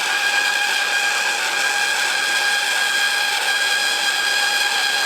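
Metal-cutting bandsaw cutting brass sheet for knife-handle liners: a steady, high-pitched whine with several ringing tones over a hiss.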